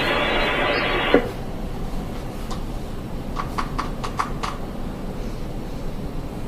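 An air-traffic-control transmission on a scanner radio, thin and narrow-sounding, cuts off about a second in. Steady low background noise follows, with a quick run of about six short clicks a few seconds in.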